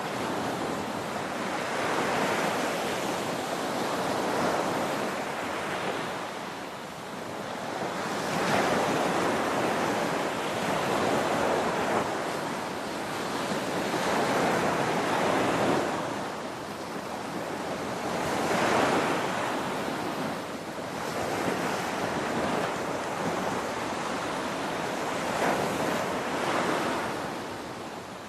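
Ocean surf: waves breaking and washing ashore one after another as a continuous rushing noise that swells and ebbs every few seconds.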